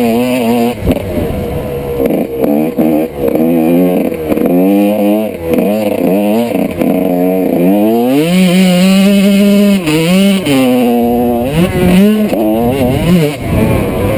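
A 1995 Honda CR125's single-cylinder two-stroke engine being ridden hard, revving up and dropping back again and again through the gears. About two-thirds of the way in it holds one longer, steady pull.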